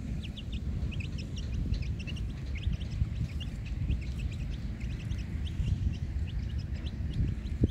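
Birds chirping: many short high chirps, several a second, over a steady low rumble, with a soft thump near the end.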